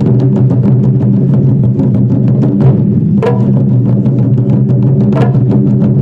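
Japanese taiko drums played in a fast, steady rhythm of many strikes a second, with two heavier accented hits, about three and five seconds in.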